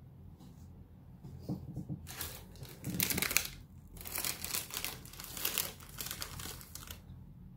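Crinkling and rustling in two stretches of a few seconds each, with a short break between them, over a faint steady low background.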